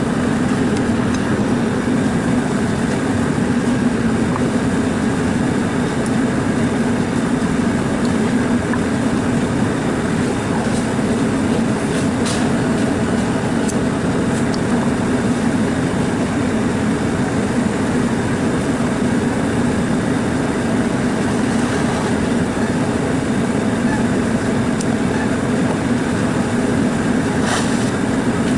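Steady whooshing drone of an evaporative air cooler's fan running close by, even in level throughout, with a few faint ticks.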